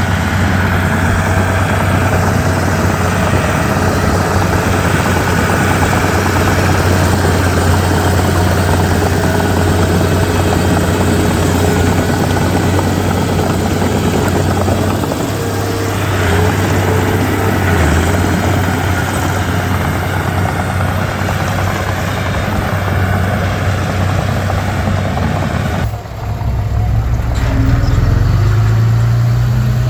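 Komatsu D31P bulldozer's diesel engine running steadily with a deep, even hum. Near the end the sound changes abruptly and the engine pitch rises as it revs up.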